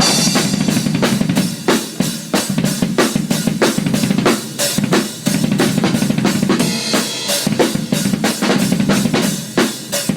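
Drum kit played fast and busily, dense strokes several to the second with bass drum and snare hits.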